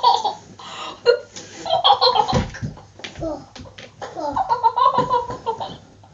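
Hearty laughter in repeated bursts, with a long run of rapid ha-ha-ha pulses a little past the middle.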